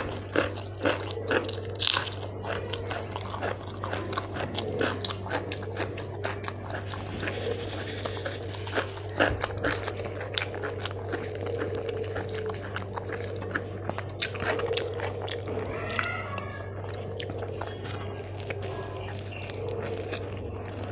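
Close-up chewing of food eaten by hand, with crunches and wet mouth clicks. The crunches come thickest in the first couple of seconds, then thin out to occasional clicks.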